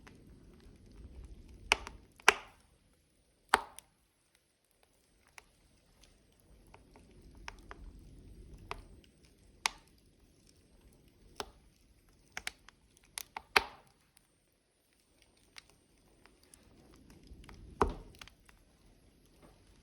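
Burning logs in a wood fire crackling, with sharp pops at irregular intervals, a few much louder than the rest, over a soft low rumble of the flames.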